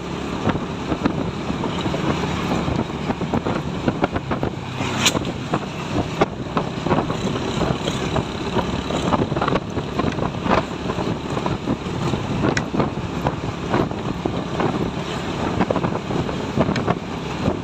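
Truck engine running steadily, with wind buffeting the microphone and scattered knocks and rattles throughout.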